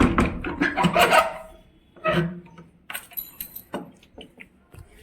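A bunch of keys and a padlock jangling and clinking as they are handled. A loud, voice-like burst fills the first second and a half, and the high metallic jingling comes about three seconds in.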